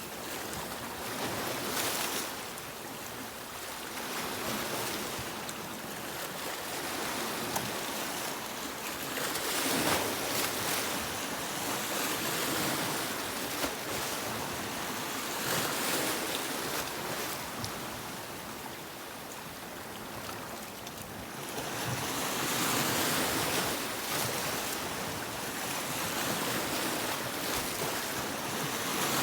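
Sea waves breaking on a beach, the surf swelling and easing every few seconds.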